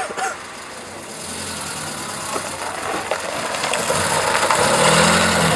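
A classic car's engine running as the car drives up close, growing steadily louder and loudest near the end.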